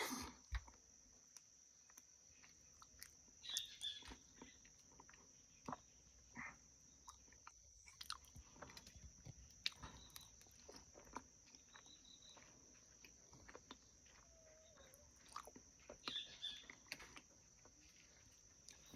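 Faint, close-up chewing and lip-smacking of a person eating honey, in scattered soft clicks and wet smacks.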